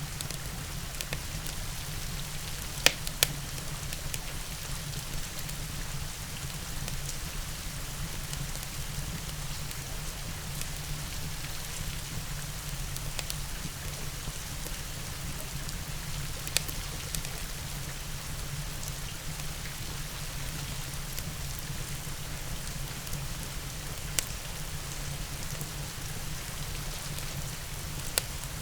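Steady rain falling, an even hiss, mixed with a wood fire in a fireplace: a few sharp pops stand out, two close together about three seconds in and single ones later.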